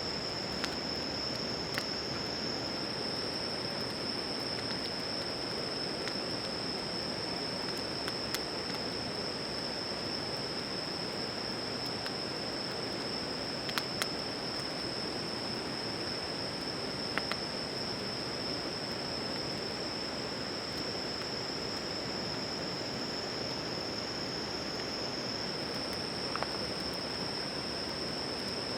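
Steady chorus of night insects, a continuous high trill, over an even background hiss, with a few scattered sharp crackles.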